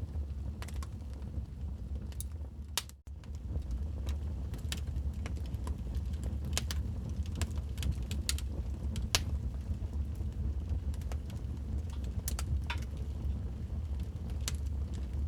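Wood fire crackling in a fireplace: irregular sharp pops and snaps over a low steady rumble of burning. The sound drops out for an instant about three seconds in.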